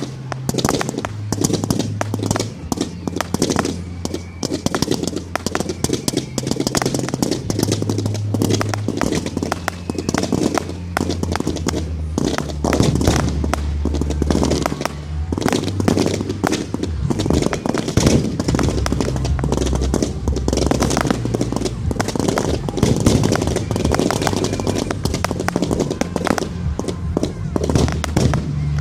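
Fireworks going off in a rapid run of bangs and crackles, denser in the second half, over background music with a low bass line.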